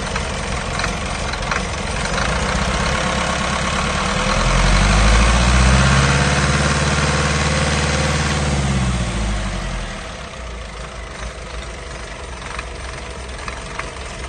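Isuzu 4HK1 four-cylinder turbo-diesel idling, revved up once about four seconds in and let fall back to idle about ten seconds in. The owner is bothered by a noise in how it runs.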